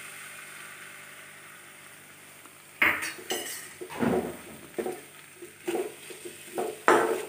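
A spoon clanking and scraping against a kadai while a sauce-coated onion, ginger and garlic masala is stirred, over a faint sizzle. The first three seconds hold only the soft sizzle; sharp clanks come about three seconds in, again a second later, and near the end.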